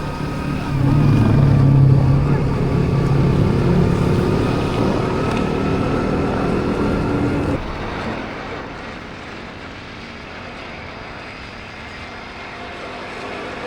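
Motorbike engine running steadily while riding, with road and wind noise. About two-thirds of the way through, the sound cuts abruptly to a quieter, even rush of wind and road noise.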